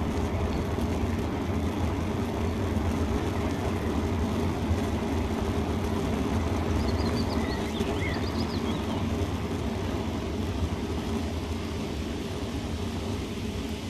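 Steady low rumble of wind and rolling noise while riding a bicycle, with a few short high chirps about halfway through.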